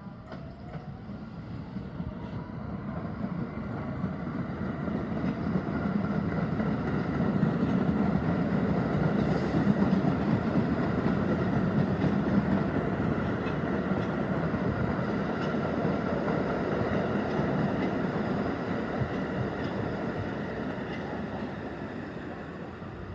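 R160B subway train with Siemens propulsion passing by: a rumble of wheels on rail with a steady whine above it, swelling to a peak about halfway through and then fading away.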